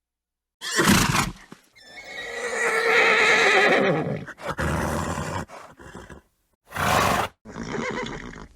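A horse neighing: one long whinny of about two and a half seconds, with a short noisy burst before it and several shorter bursts after, each sound cut off into dead silence.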